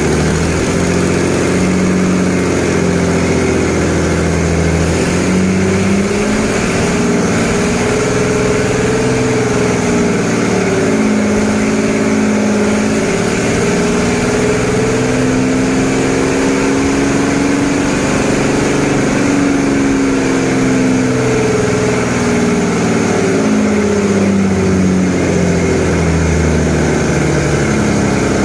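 Detroit Diesel 6-71 two-stroke inline-six diesel running. It comes up from idle over the first few seconds, holds at higher speed through the middle, and settles back toward idle near the end.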